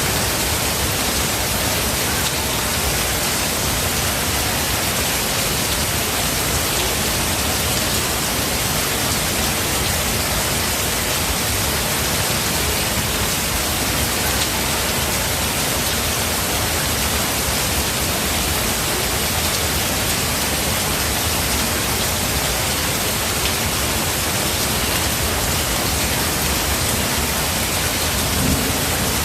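Steady rain falling in a forest: a dense, even hiss with no breaks.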